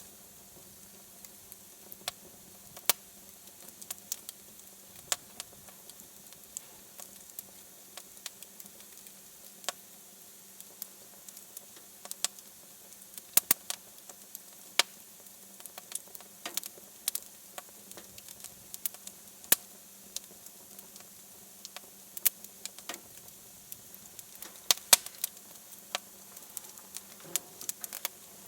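Wood fire crackling in a fireplace: irregular sharp pops and snaps, sometimes several in quick succession, over a faint steady hiss.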